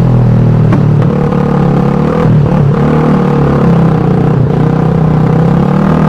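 Suzuki Satria FU 150's single-cylinder four-stroke engine and exhaust running at fairly steady revs, with a shift in the note about a second in.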